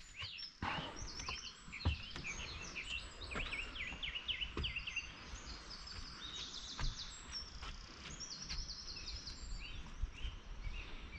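Songbirds singing in the early morning: several birds at once, a mix of quick chirps and fast trills, with a few soft knocks.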